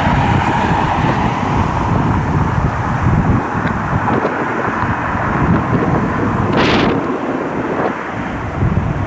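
Strong wind buffeting the microphone in a gusty, uneven low rumble, over the noise of jet airliner engines. A brief hiss rises about seven seconds in.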